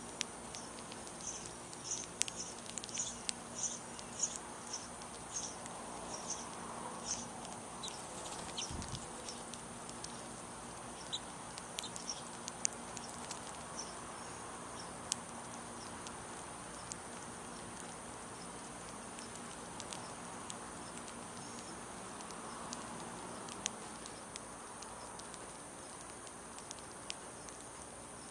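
Small birds chirping in a quick series of short, high chirps, about two a second for the first several seconds, then only now and then. Sharp ticks are scattered through, over a steady high insect drone.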